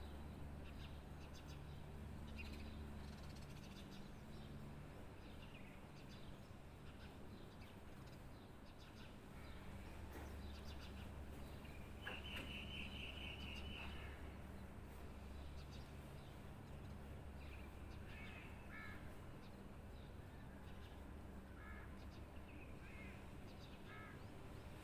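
Birds calling over a steady low hum: a rapid run of pulsed notes lasting about two seconds midway, then scattered short calls toward the end.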